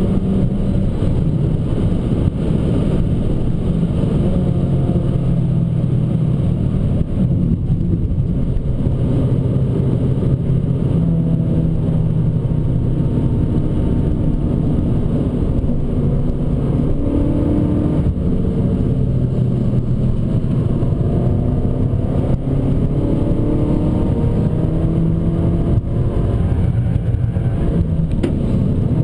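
Abarth 595 Competizione's turbocharged 1.4-litre four-cylinder engine being driven hard, its pitch rising and falling repeatedly with acceleration and gear changes, over a steady rush of road noise.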